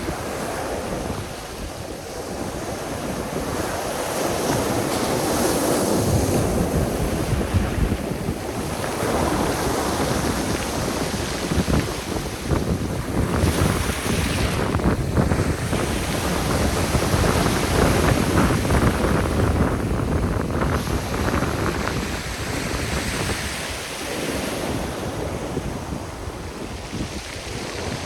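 Black Sea waves breaking on the shore, the surf swelling and fading in long surges, with wind buffeting the microphone.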